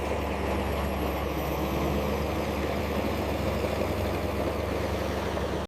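Engine of a heavy machine running steadily at a constant speed, a low, even drone with a faint high whine above it; it cuts off abruptly at the end.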